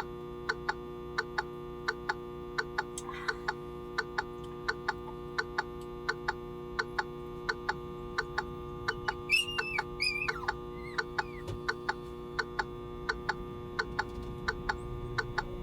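A steady electrical hum with a fast, even ticking, about two to three sharp ticks a second, and a short high squeal about nine seconds in.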